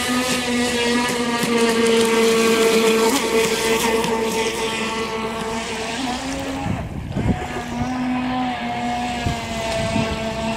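Traxxas Blast RC speedboat's stock brushed electric motor, on a 2-cell lipo, running at speed with a steady high whine. About seven seconds in the whine breaks off briefly under a short rough burst of noise, then picks up again.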